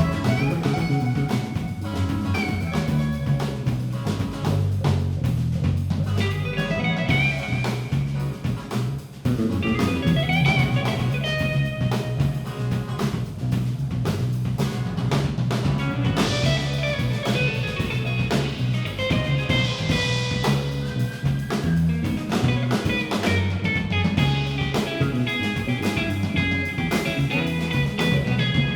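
Live band playing an instrumental passage: guitar lines over a steady low end and drum kit, with a brief drop in the playing about nine seconds in.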